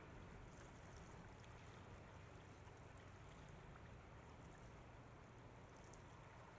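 Near silence, with only a faint hiss.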